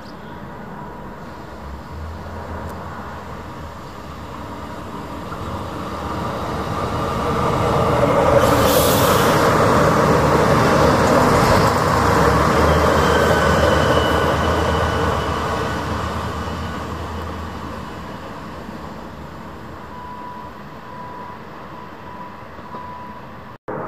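Irish Rail 29000-class diesel multiple unit passing through a station: a rushing rumble of wheels on rail over a low engine hum, building for several seconds, loudest for about six seconds midway, then fading as it draws away. A short hiss comes about nine seconds in, and a faint high whine is heard near the end.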